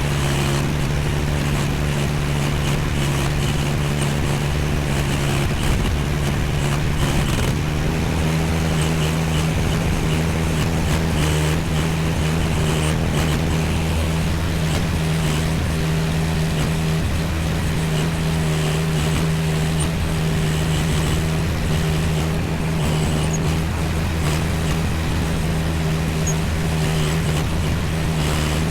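AGT MX15R mini excavator's engine running steadily, its pitch stepping up slightly about seven seconds in.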